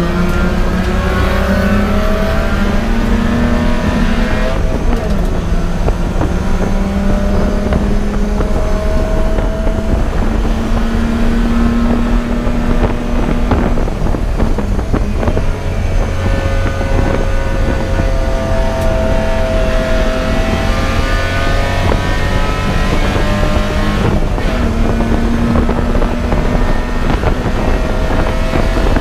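Race car engine running hard on a road course, its pitch climbing slowly and dropping several times as the car shifts and brakes for corners, over a loud low rumble.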